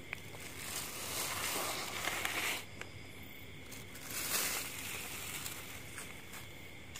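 Rustling and scuffing of someone moving around and shifting things on dry, leafy ground, with a few light knocks. The rustling swells twice.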